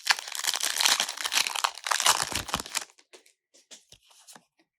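Foil wrapper of a Pokémon booster pack crinkling and tearing open for about three seconds, then a few soft ticks and rustles.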